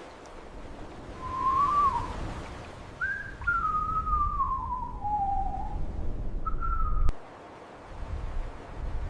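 Three whistle-like tones gliding in pitch: a short rising one, a long one that falls steadily, and a brief steady one near the end, over a low rumble that stops abruptly about seven seconds in.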